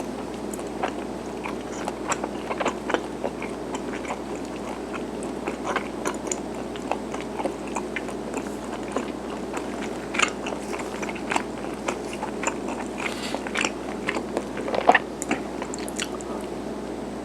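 Close-up chewing and biting of garaetteok, chewy Korean rice cake sticks: a run of small, irregular mouth clicks and smacks, one sharper than the rest late on.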